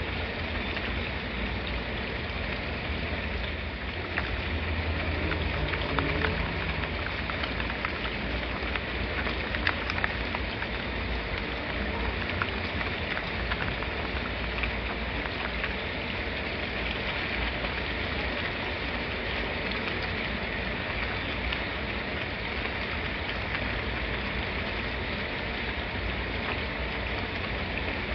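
Steady rain falling, an even hiss of drops, with a few sharper drop ticks between about four and fourteen seconds in.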